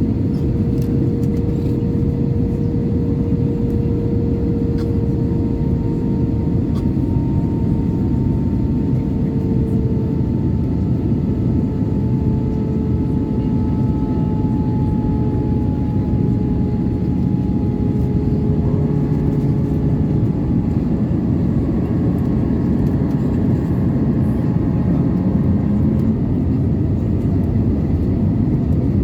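Airbus A320 cabin noise heard from a window seat: a steady rush of airflow and hum from its CFM56 engines. A couple of faint engine tones slide slowly down in pitch.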